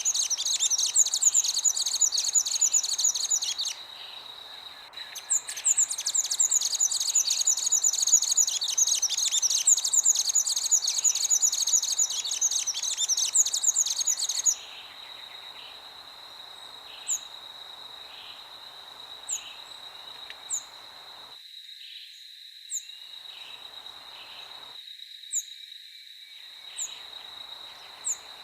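Wild birds singing: a dense, rapid, high chattering song that breaks off briefly about four seconds in and stops about halfway through, followed by single short high chirps every second or two. Underneath runs a steady high insect drone and a soft wind-like hiss.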